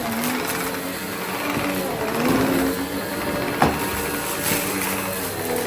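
Goodmans TurboMax vacuum cleaner running with a steady motor hum and hiss, and one sharp click about three and a half seconds in.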